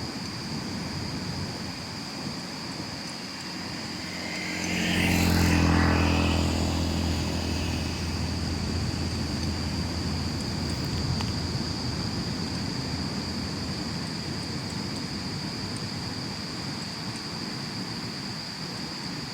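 A motor vehicle passes by, its engine swelling to loudest about five to six seconds in and then fading away, over a steady background hiss with a thin high steady tone.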